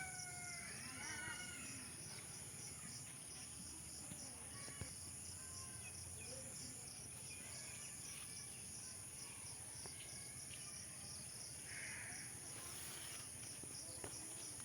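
Faint insect chorus: a steady high trill with an even, pulsing chirp, typical of crickets. A few faint falling bird calls come in the first second or two.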